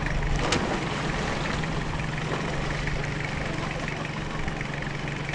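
Longtail boat engine idling steadily, with a single sharp knock about half a second in.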